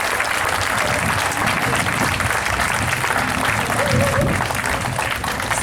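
Audience applauding at the end of a live band's set, with a few voices calling out from the crowd.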